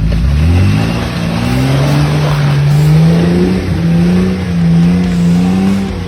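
Four-wheel-drive's engine revving: its pitch climbs sharply over the first second and a half, then holds at high revs, creeping slowly higher with small dips.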